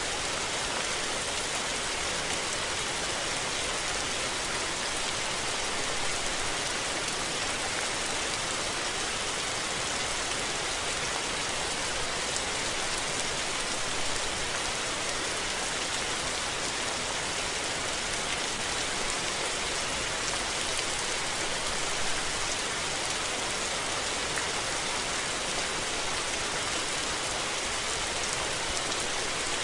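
Steady rain falling and pattering on surfaces, a dense even hiss of many drops with fine individual drop ticks and no thunder.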